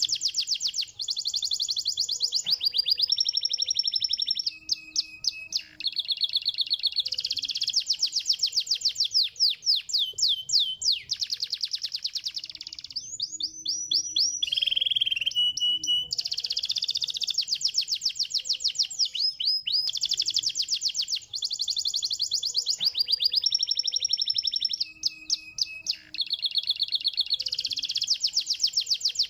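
Domestic canary singing a long song of rapid trills and fast repeated high notes, one phrase after another with brief breaks, the same run of phrases coming round again about halfway through.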